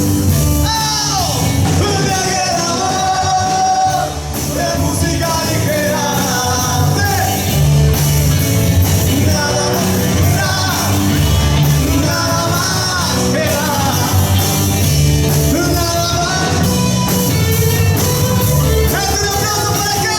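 A live rock band playing a cover song: a lead singer over electric guitar, bass guitar and a drum kit, loud and steady in a large hall.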